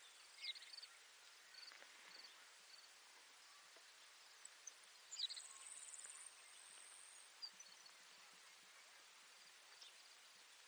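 Baird's sparrow singing: a few short, sharp notes, then a high buzzy trill of about two seconds starting around five seconds in, over faint steady field hiss.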